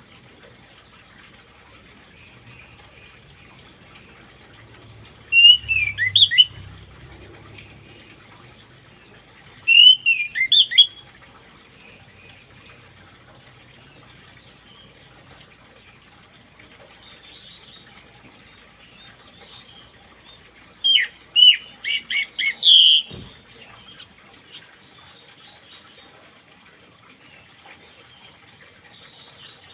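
A songbird giving three short bursts of quick chirping notes, about five seconds in, about ten seconds in and again near 21 seconds, over a faint steady hiss of running water; a soft low thump follows the last burst.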